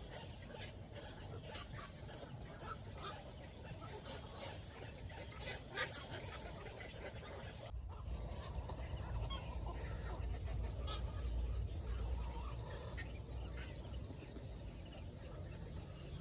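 Birds calling with many short chirps scattered through, over a low rumble that grows louder about halfway through.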